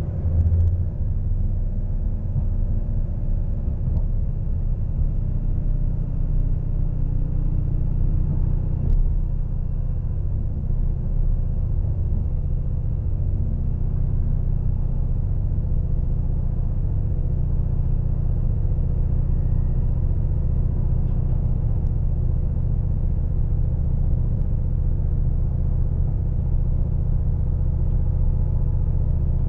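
Steady low rumble of a diesel passenger train running, heard from inside the carriage, with one light knock about nine seconds in.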